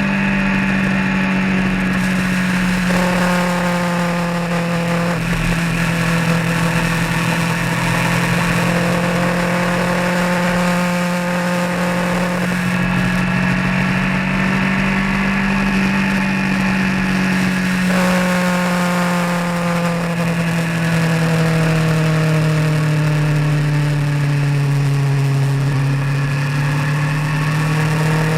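Vehicle engine running steadily while driving, its pitch easing down over the last several seconds. A set of higher tones comes in about three seconds in and again about eighteen seconds in, each time slowly falling in pitch.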